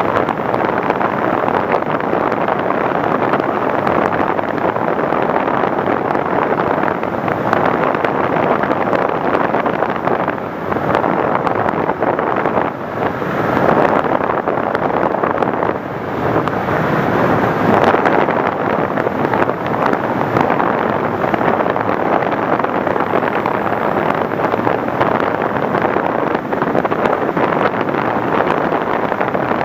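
Steady rush of wind over the microphone, with no clear motor tone, dipping briefly a few times.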